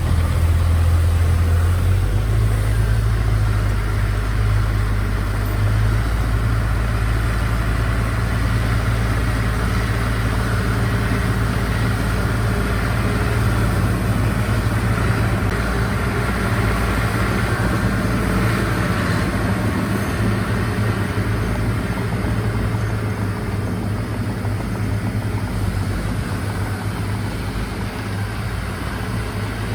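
Heavy earthmoving diesel engine running steadily, its low note shifting about two seconds in and easing off slightly near the end.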